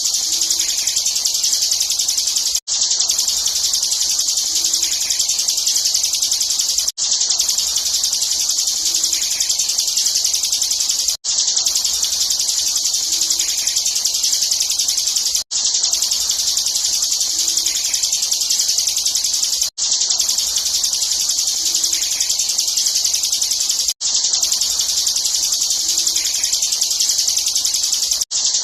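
Bar-winged prinia (ciblek) singing a dense, rapid, high-pitched song without pause, the 'ngebren' style used as a training recording for contest birds. The song breaks off for an instant about every four seconds.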